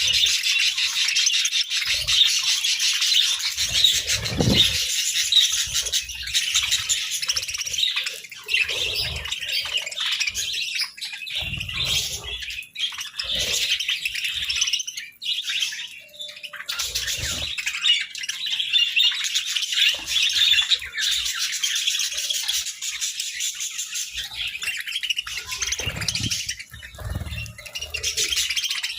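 A flock of budgerigars chattering and chirping continuously, a dense warbling babble with squawks mixed in, broken now and then by short low thumps.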